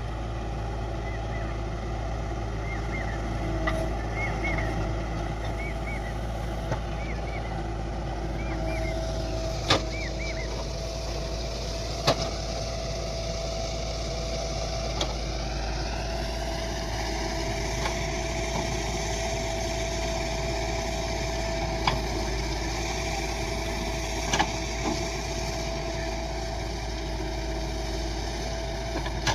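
Diesel engines of heavy earth-moving machinery running steadily while soil is loaded, with a few short sharp knocks scattered through.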